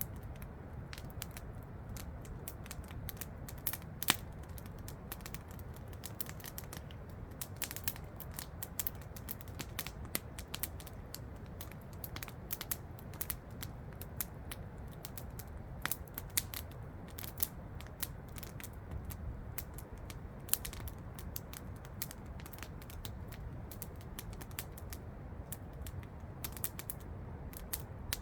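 Wood campfire crackling, with irregular small snaps and a few louder pops, over a steady low rush of falling water.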